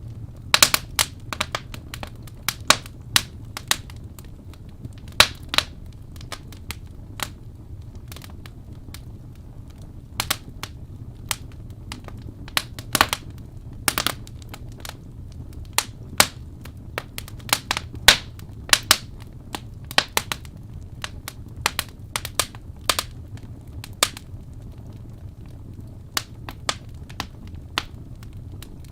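Logs burning in a fireplace, crackling with irregular sharp pops and snaps, some much louder than others, over a steady low rumble of the fire.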